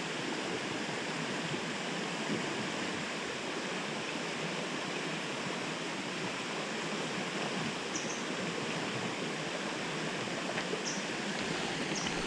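Mountain river water rushing and flowing steadily, an even unbroken wash of sound.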